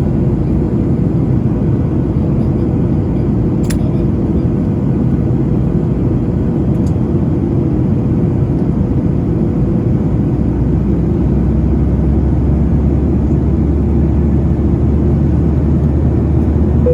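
Steady roar of a Boeing 737-900ER's CFM56-7B engines and airflow, heard inside the cabin in flight, with a faint steady tone above it. The low rumble shifts slightly about ten seconds in.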